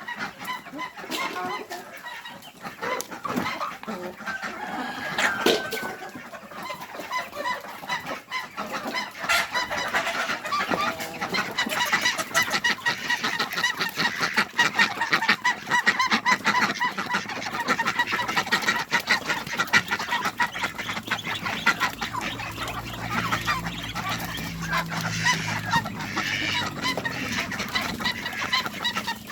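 Chickens clucking while they feed, many short calls overlapping, over a dense patter of small ticks.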